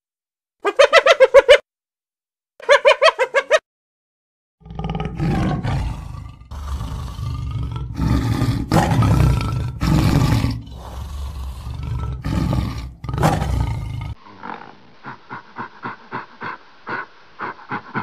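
A spotted hyena giving two short bursts of rapid, pitched, pulsing giggles, then a tiger roaring in a run of loud, rough calls for about ten seconds. Near the end, the roaring stops abruptly and gives way to a string of short, quieter grunts.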